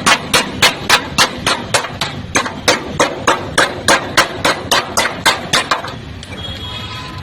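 A hammer beating a dent out of the Maruti Zen's sheet-metal body panel, in steady blows about three a second. The blows stop near the end.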